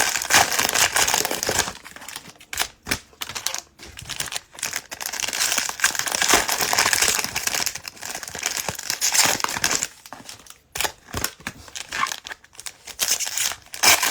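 Plastic cello-pack wrappers of trading cards being torn open and crinkled by hand, in irregular rustling bursts with short pauses.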